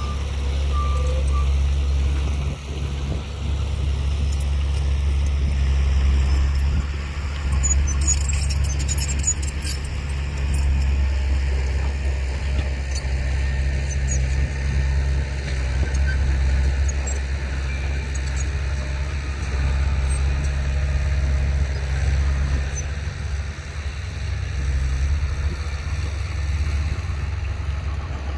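Heavy construction machine's diesel engine running steadily with a deep, unbroken rumble. There are a couple of short beeps right at the start and a spell of light clattering about eight seconds in.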